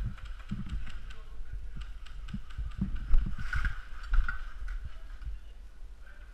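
A player's movement picked up by a body-worn camera: irregular low thuds of footsteps and gear knocking, with a few sharp clicks, the loudest about three seconds in.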